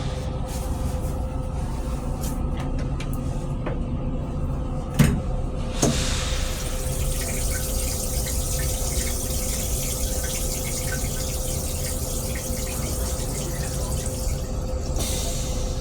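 Water running in a Metro-North M3 railcar restroom as a steady hiss for about nine seconds, starting after two knocks about five and six seconds in and stopping sharply near the end. Under it the moving railcar gives a steady low rumble and hum.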